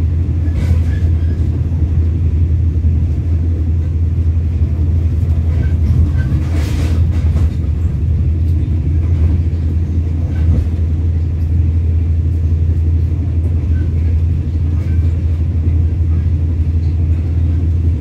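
Steady low rumble of a moving passenger train heard inside the coach: wheels running on the rails and the train's running noise. A brief louder noise comes about seven seconds in.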